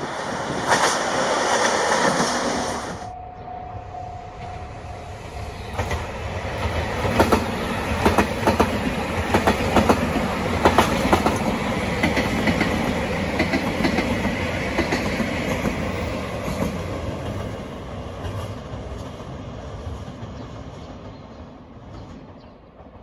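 A KiHa 201 diesel railcar passing close by: a steady low engine rumble with wheels clicking over rail joints, fading away over the last several seconds. It is preceded by a few seconds of another train passing, which cuts off abruptly about three seconds in.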